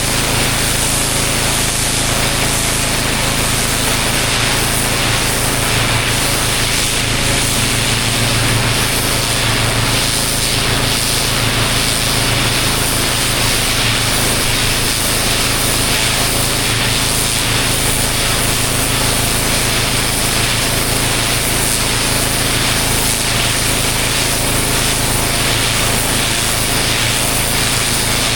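Pressure washer running steadily: an engine hum under the hiss of the high-pressure water jet spraying onto block paving.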